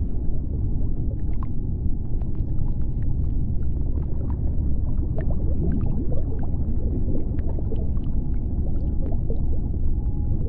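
Underwater ambience of the sea floor: a continuous deep rumble with scattered faint clicks and crackles, and a few short gliding squeaks about halfway through.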